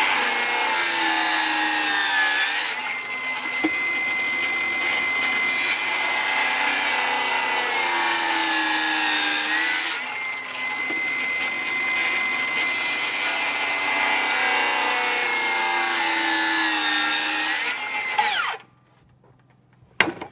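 Electric power tool cutting wood, its motor whining steadily and dipping in pitch three times as it bites into the cut. It shuts off near the end.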